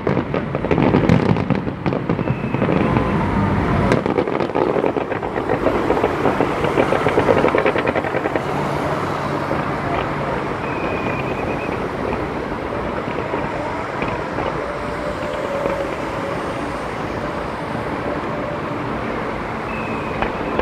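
Fireworks display crackling and popping without a break, a dense rapid crackle that is loudest in the first third and then settles into a steadier crackle.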